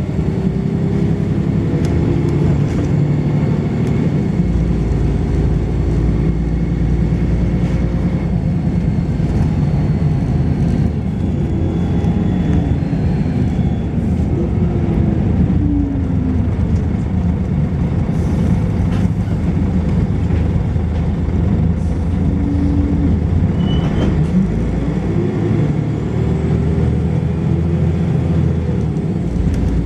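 Volvo B10BLE bus's rear-mounted six-cylinder diesel and ZF automatic gearbox running under way. The engine note rises and falls through the gears, with faint thin high-pitched tones above it.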